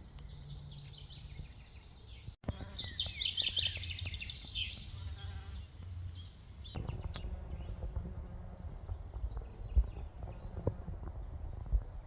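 Small songbirds chirping and singing in quick repeated notes, loudest a few seconds in, over a low outdoor rumble.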